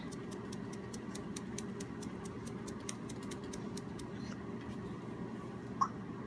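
Light, even ticking, about four ticks a second, over a steady low hum, with one short high peep near the end.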